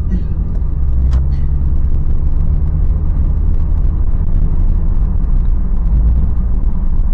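Steady low engine and road rumble of a Toyota 4Runner with a 4.0-litre V6, driving along at an even pace.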